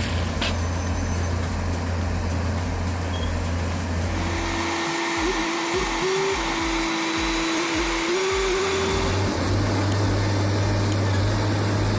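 Forestry machine's engine running with a steady low hum. Partway through, the hum drops away for about five seconds while a steady whine with small steps in pitch and low pulsing comes in, then the hum returns.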